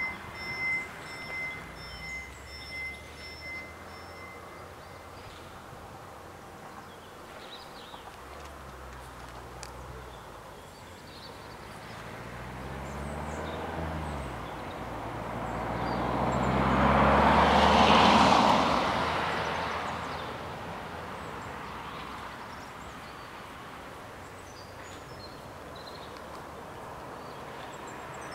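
Level-crossing bell ringing with steady strikes for the first few seconds, then stopping once the barriers are down. A regional train then approaches and passes the crossing, building to its loudest about 18 seconds in and fading away.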